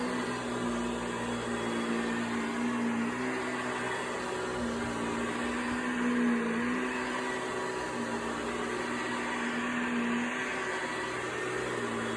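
Vacuum cleaner motor running steadily, its hum shifting slightly in pitch every second or two.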